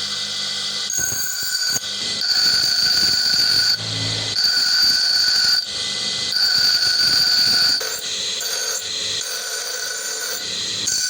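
Power tool grinding metal: a steady whine with hiss, swelling in repeated passes of about a second and a half each.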